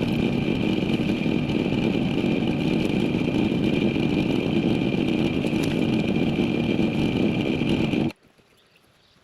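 Chainsaw running steadily at speed, cutting off suddenly about a second before the end.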